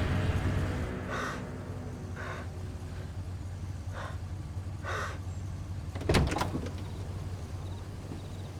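Four soft muffled thuds, then a sharp knock about six seconds in and another at the very end, over a low steady hum.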